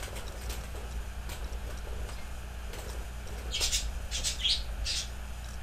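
A small pet bird chirping: a handful of short, high chirps clustered over a couple of seconds, with faint ticks before them and a low steady hum underneath.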